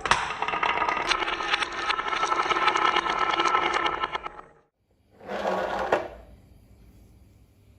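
A small geared mechanism, likely the toy mini tractor's motor and gears, running with a dense rapid clicking for about four and a half seconds. It stops, then runs again briefly about five seconds in.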